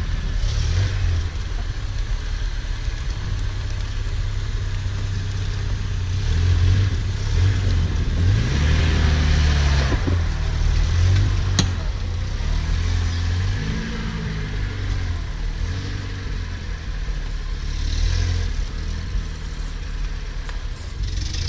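Off-road 4x4's engine running at low revs and revved up and down several times as it works over rough terrain.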